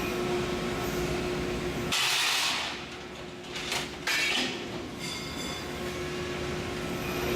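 Hydraulic CNC press brake running with a steady machine hum. About two seconds in, a loud hissing rush of hydraulics breaks in and the hum drops away. A shorter hiss comes near the four-second mark, and the steady hum returns near the end.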